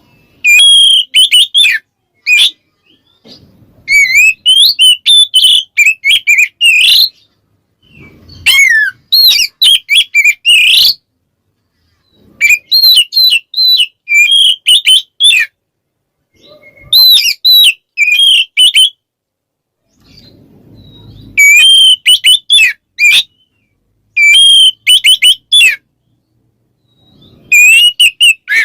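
Oriental magpie-robin (kacer) singing loud, clear 'ngeplong' song: about eight bursts of rapid, varied whistled notes, each one to three seconds long, with short pauses between. This is a challenge song that calls out a rival male.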